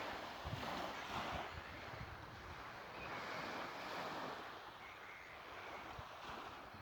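Sea waves washing in slow surges, with wind buffeting the microphone.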